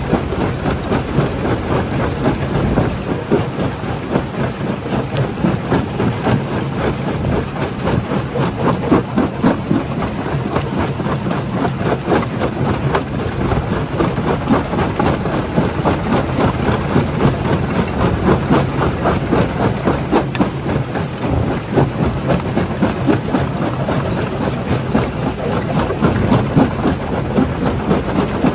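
Primary jaw crusher running and breaking rock: a steady low machine hum under a dense, continuous clatter of stones knocking and cracking.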